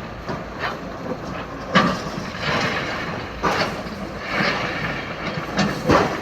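A JCB demolition machine runs with a steady low engine rumble, with irregular crunches and knocks of breaking masonry and falling debris, roughly one every second.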